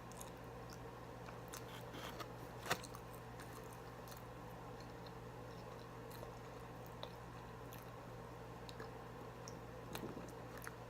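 Faint chewing of a fried chicken meal, with small crunches and wet mouth clicks and one sharper click about three seconds in, over a steady low room hum.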